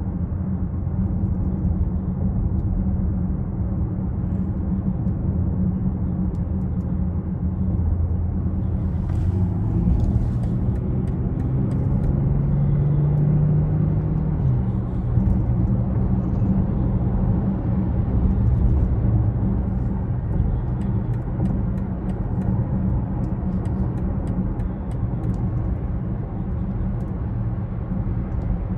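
2020 BMW X6 xDrive40i's turbocharged 3.0-litre inline-six and road noise while driving, a steady low rumble. About ten seconds in the engine note rises for a few seconds, then drops suddenly, as at an upshift.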